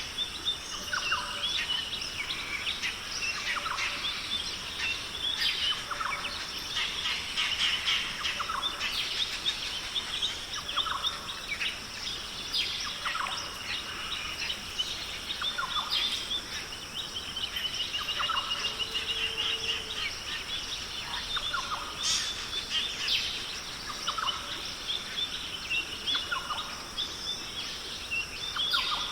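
Australian rainforest bird chorus: many birds calling over one another in short chirps and whistles, over a steady high-pitched hum. A rapid trill runs for a few seconds past the middle.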